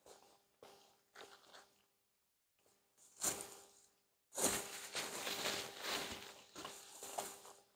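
Faint chewing of pizza with small mouth clicks, then a paper napkin rubbed over the mouth, rustling for about three seconds near the end.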